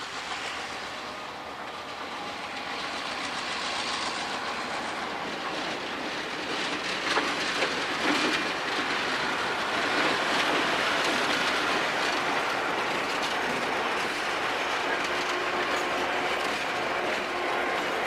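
Diesel-hauled train on the move, its rolling rail noise growing louder over about the first ten seconds and then holding steady, with a few sharp knocks partway through.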